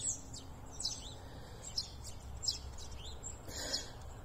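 Small birds chirping: short, high, downward-sliding chirps repeating about once a second, over a low steady rumble, with a brief soft rush of noise near the end.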